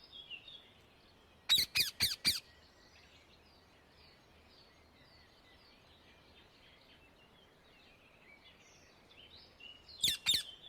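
Indian ringneck (rose-ringed) parakeet calling: a quick series of four loud, harsh screeches about a second and a half in, and another quick run of three near the end. Faint high chirping from other birds goes on underneath.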